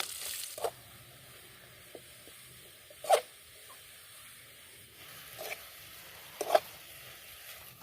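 Faint sizzle of a tempering frying in coconut oil in a pan, broken four times by short scrapes of a spoon against the pan. The second and fourth scrapes are the loudest.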